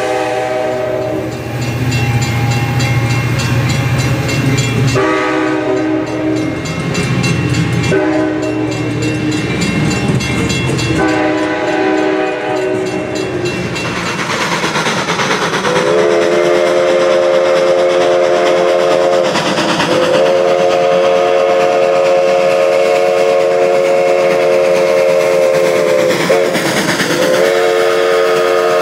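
Train horn sounding a chord of several tones: four short blasts over a low rumble in the first half, then long held blasts, broken by two brief dips in pitch.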